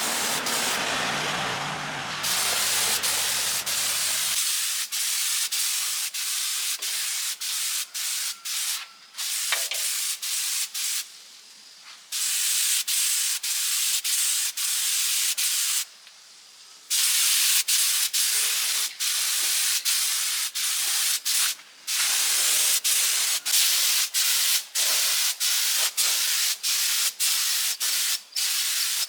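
Compressed air hissing from an air gun in many short and long bursts, each cut off as the trigger is released. During the first few seconds a lower, rougher noise runs underneath.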